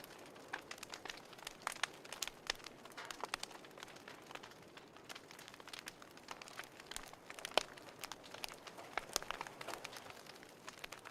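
Wood fire crackling in a fireplace: irregular sharp pops and snaps over a soft hiss, with one louder pop about two thirds of the way through.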